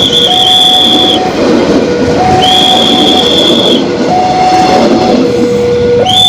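Railway level-crossing warning alarm sounding, alternating between a higher and a lower note about once a second, with a shrill higher tone coming and going, over the noise of a passing train.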